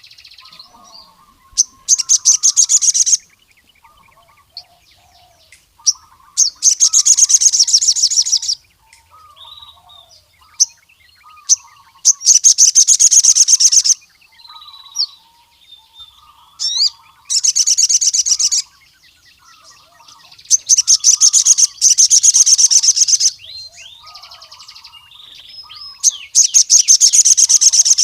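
Male crimson sunbird (sogon) singing: six loud, high, very fast trills of one to three seconds each, coming every few seconds, with a soft, lower twittering between them.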